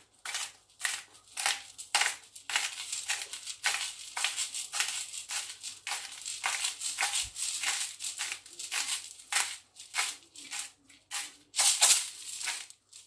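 Salt being dispensed onto raw chicken pieces: a long run of short rattling, crunching strokes at about three a second.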